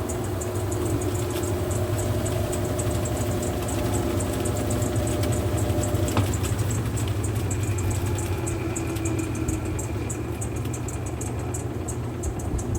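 Mueller Popmatic 8 kg washing machine running mid-cycle: a steady motor hum with a fast, even light ticking over it.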